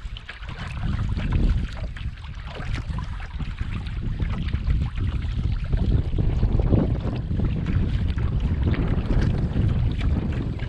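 Wind buffeting the microphone on a kayak out on the water, a heavy uneven rumble, with light splashing and trickling water over it.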